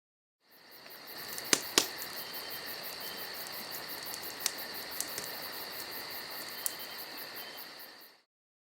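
Wood campfire crackling, with a handful of sharp pops and snaps over a steady hiss, and a steady high insect trill behind it. It fades in and fades out.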